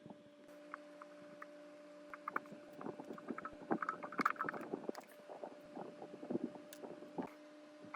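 A steady low hum throughout, with a dense run of short clicks and knocks from a couple of seconds in until near the end.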